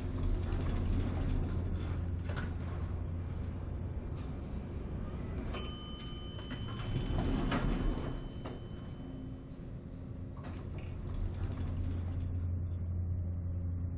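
Elevator sounds: a steady machinery hum with sliding-door and mechanism noises, and a single bell-like ding about halfway through.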